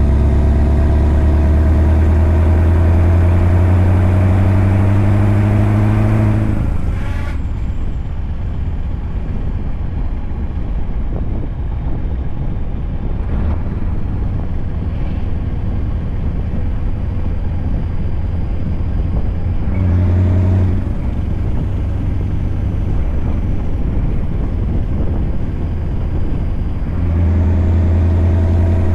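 Scania truck's V8 engine pulling under load, its pitch slowly rising, then dropping away about a quarter of the way in to a steady rumble of road and drivetrain noise. The engine note returns briefly in the middle and again near the end.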